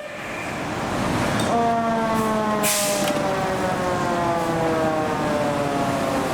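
Fire engine siren, its pitch sliding slowly down over several seconds and starting to climb again right at the end. A short burst of hiss comes about two and a half seconds in.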